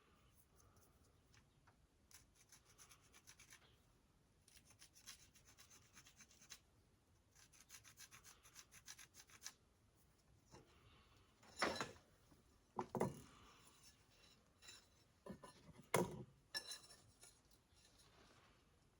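Quick back-and-forth scraping on metal in three short runs of strokes, like hand work on a steel part, then several sharp knocks of metal parts or tools being handled.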